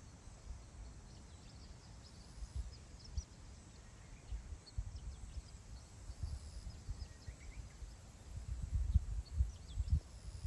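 Wind gusting over open grassland and buffeting the microphone as a low, uneven rumble that grows stronger near the end, with faint bird chirps now and then.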